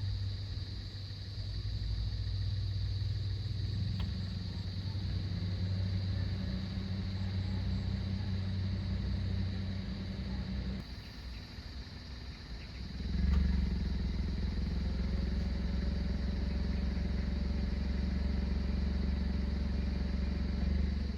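A steady low engine hum that cuts out about eleven seconds in and comes back louder two seconds later.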